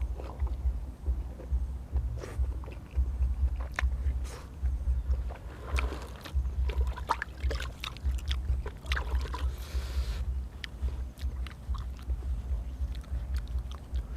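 Eating sounds: chewing and crunching, with scattered clicks and crackles, over a low, uneven rumble on the microphone.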